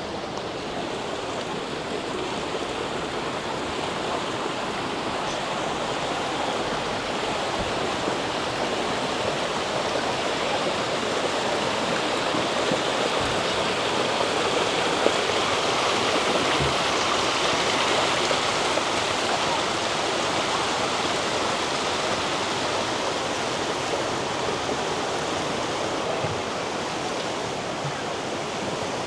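Rushing water of a stream or cascade, a steady wash of noise that grows louder to a peak about two-thirds of the way through and then eases off.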